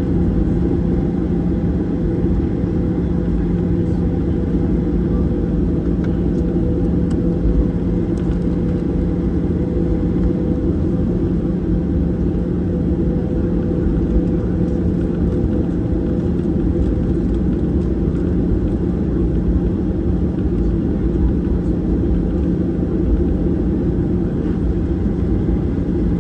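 Cabin noise inside a Boeing 737-800: a steady low rumble from the jet engines and airflow, with a constant hum.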